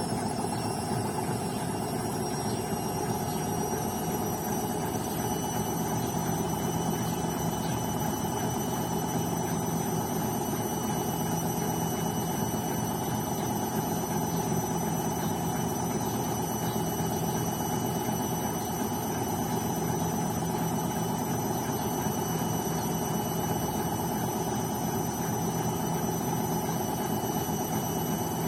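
BEKO washing machine running steadily: a continuous drum and motor rumble with a thin high motor whine that rises slightly in pitch over the first few seconds, then holds.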